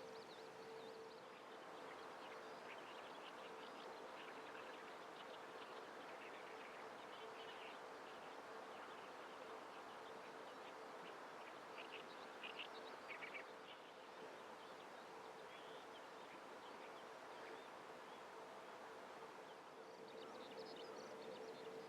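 A faint, steady, even buzzing hum on one unchanging tone, with scattered faint high bird chirps over it, a little clearer about twelve to thirteen seconds in.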